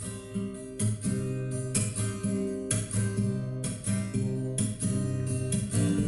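Acoustic guitar strumming chords as the instrumental introduction of a song, with strong strokes about once a second and lighter strokes between.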